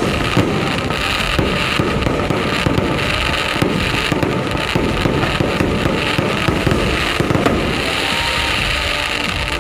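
Fireworks going off in a dense, continuous barrage: many overlapping bangs and crackles with no pause between them.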